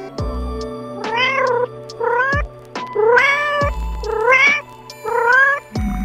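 Domestic cat meowing five times, each meow about half a second long with a rising then falling pitch, over background music.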